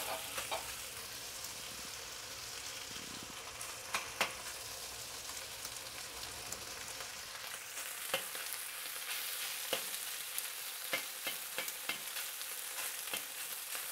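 Chunks of beef searing in hot oil in a smoking-hot wok: a steady sizzle, with scattered sharp crackles and clicks that come more often in the second half.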